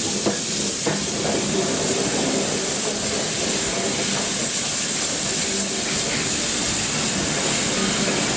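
Steam locomotive 3801, a NSW C38 class Pacific, giving off a loud, steady hiss of escaping steam over a faint low hum, with a couple of light clicks in the first second.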